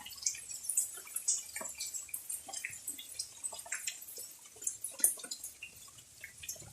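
Water dripping after rain: many irregular drops falling and tapping, with one louder drop about five seconds in.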